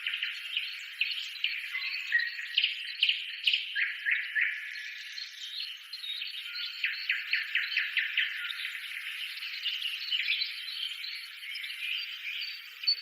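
Birds chirping and twittering in quick runs of high, short notes.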